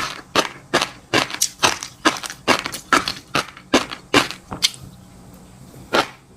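Close-miked ASMR chewing of crunchy food, loud crunches coming about three a second, stopping for about a second near the end before one more crunch.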